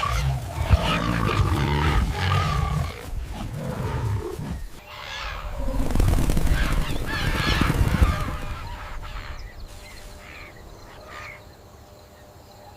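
Lioness growling and snarling in rough, low calls, loudest about six to eight seconds in and fading near the end.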